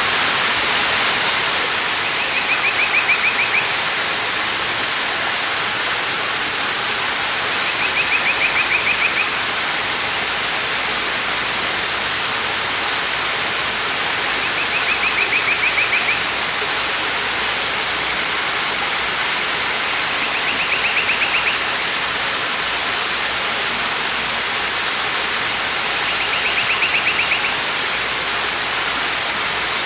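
Waterfall rushing steadily. A short, high trill repeats five times, about six seconds apart.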